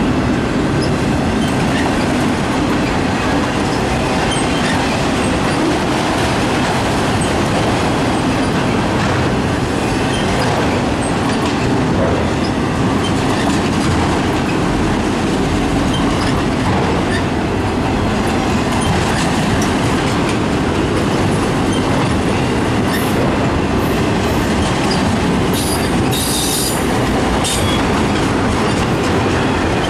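Freight cars of an autorack train rolling past at steady speed: a continuous rumble of wheels on rail with clickety-clack and scattered clicks, and brief high wheel squeals near the end.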